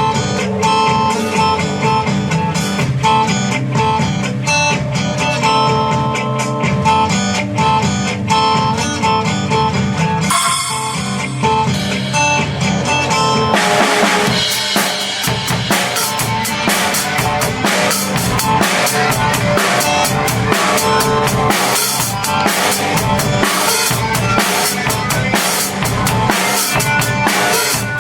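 Drum kit played along to a rock backing track with electric guitar. The drumming grows fuller and denser about halfway through, with cymbals crashing and fast bass and snare hits.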